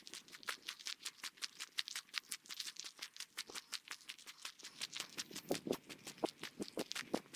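Footsteps on a forest trail, sped up to three times normal speed, so they come as a quick, even run of short steps, several a second, with some heavier steps in the second half.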